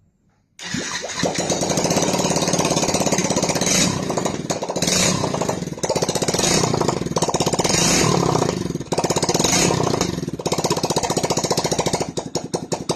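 Yamaha FZ-S motorcycle's single-cylinder engine starting suddenly about half a second in and then running with a fast, even beat, swelling and falling several times as the throttle is opened and closed.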